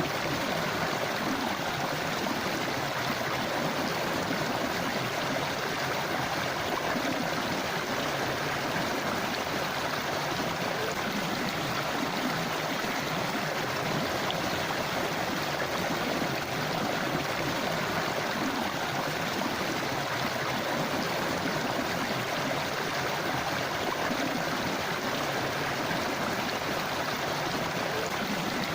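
Shallow forest river flowing and burbling steadily over rocks.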